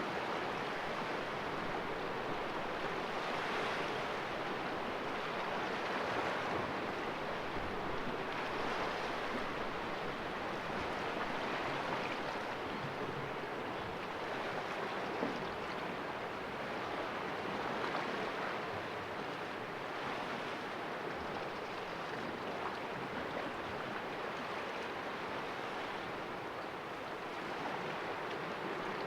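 Sea waves washing and splashing against rocks in a calm cove, a continuous surf hiss that swells gently every few seconds.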